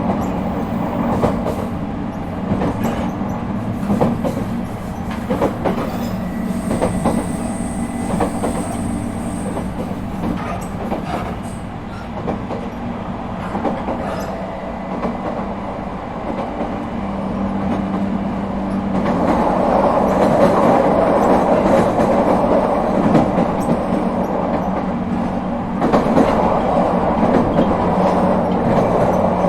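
Interior running noise of an ET127 series electric train with refurbished Toyo IGBT-VVVF equipment: steady wheel-on-rail rolling noise with rail-joint clicks and a low steady motor tone. About two-thirds of the way in the rolling noise grows clearly louder, dips briefly, then rises again.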